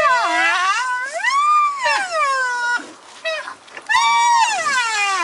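White rhinoceros giving long, high-pitched squealing calls that waver up and down in pitch. The first lasts nearly three seconds and the second begins about four seconds in.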